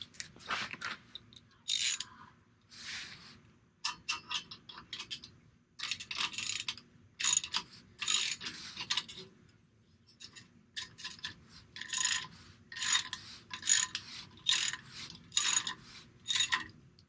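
A socket ratchet wrench clicking in short runs, about one a second with a brief pause midway, as it tightens the clamp bolt of an exhaust tip with a 15 mm socket.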